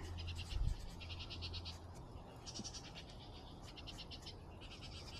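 Repeated short, high-pitched pulsed trills from calling wild animals, each under a second long and coming about once a second, over a faint low rumble.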